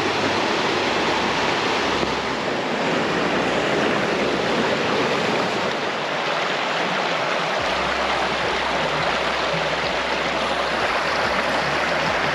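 Mackenzie Falls and its creek: water rushing steadily, an even wash of noise with no breaks.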